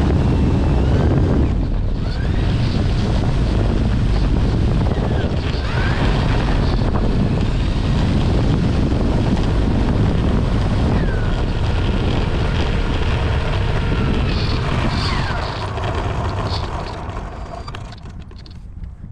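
Wind buffeting the microphone on an E-flite Turbo Timber Evolution RC plane in flight, with the electric motor and propeller whining behind it. The whine slides up and down in pitch, and everything dies away near the end.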